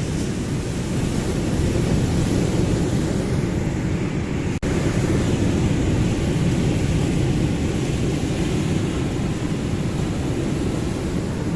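Ocean surf: a steady, low rumbling wash of waves, with a momentary dropout about halfway through.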